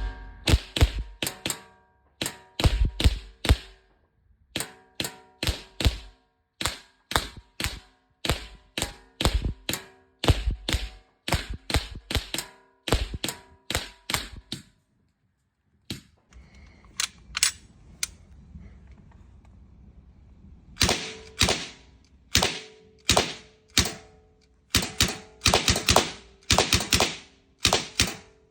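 Sig Sauer MCX Canebrake CO2 air rifle firing exploding flash pellets in quick semi-automatic strings, each shot a sharp crack. There is a short pause about halfway through, then the rapid fire starts again.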